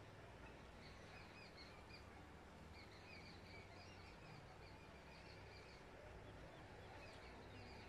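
Faint birds chirping at dusk: short high calls repeated in clusters over a low background hum, near silence otherwise.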